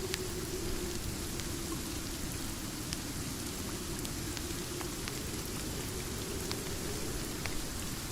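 Steady rain falling, an even hiss with scattered faint sharp ticks about once or twice a second.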